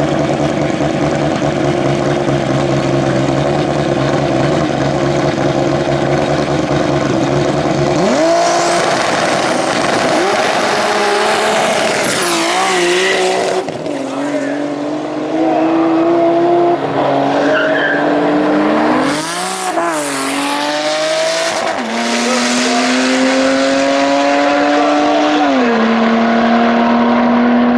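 Turbocharged BMW E30 drag car with an E34 M5 straight-six, running steadily at first, then revving with pitch climbing and dropping in steps. There is a quick rev up and down near the middle and a drop in pitch about three-quarters of the way through.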